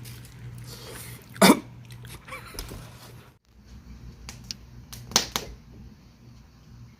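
A person coughs sharply twice, about four seconds apart.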